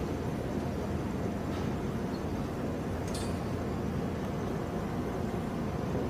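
Steady low rumble of a vehicle under way, with a faint clink about three seconds in.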